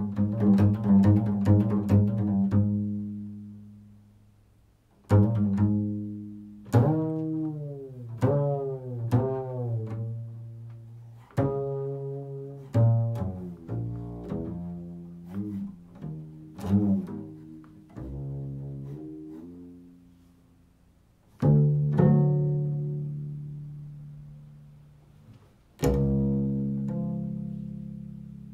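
Improvised solo instrumental music in a low register: plucked notes that start sharply, ring and fade, several of them bending in pitch. A busy run of notes at the start, then single notes and short phrases with brief lulls between them, and one last low note near the end.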